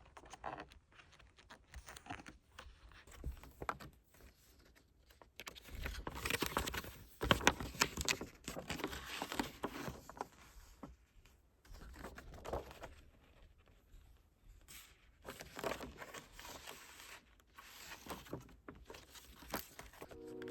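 Hands handling a K-pop photobook album and its paper and plastic packaging: irregular crinkling and rustling with small clicks, loudest from about six to ten seconds in.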